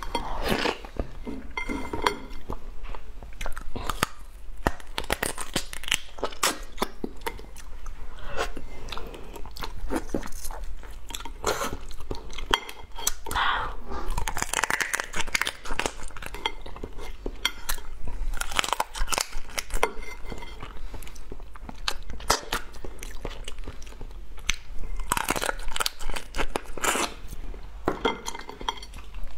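Repeated crunching and chewing as crab shell and legs are bitten and cracked between the teeth.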